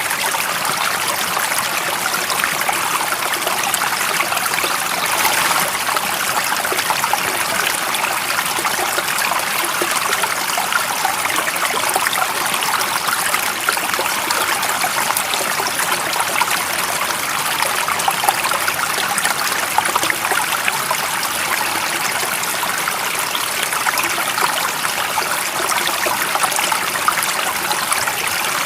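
Stream water running and trickling over stones in a steady, even rush, bright and splashy, with no letup.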